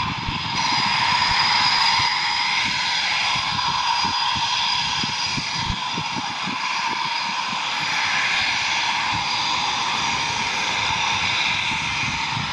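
Military jet engines running steadily with a high whine over a low crackling rumble, from RAF Eurofighter Typhoons on a mass take-off.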